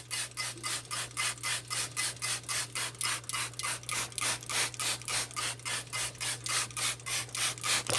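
Quick, even swishing strokes, about five a second, as the inside of a microwave is cleaned with a spray-bottle cleaner and a wipe; they stop at the very end.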